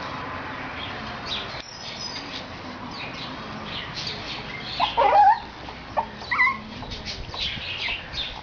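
Puppy whimpering and yelping, with a loud wavering cry about five seconds in and a shorter one a second later; small birds chirp faintly behind.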